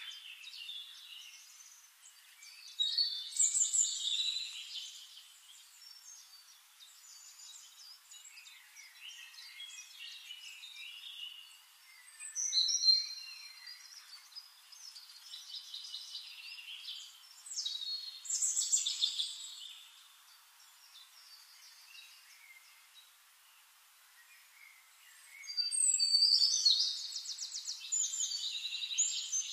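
Small songbirds chirping and trilling in bouts of quick high notes, the loudest and longest bout near the end.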